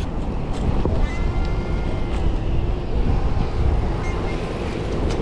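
Wind rumbling over the microphone while cycling along a city street, with traffic noise around.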